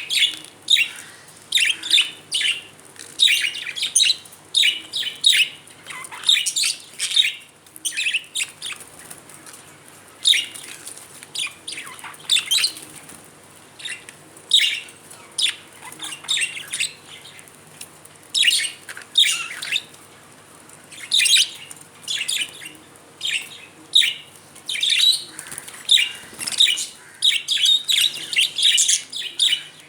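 Pet budgerigars chirping and chattering in quick runs of short, high chirps, with brief pauses between runs.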